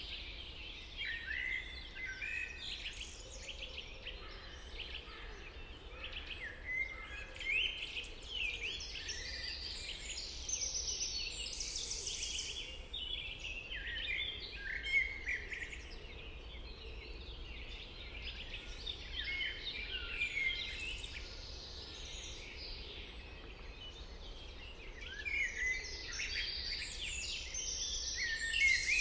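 Several songbirds singing at once, with overlapping chirps, trills and whistled phrases throughout, over a steady low rumble.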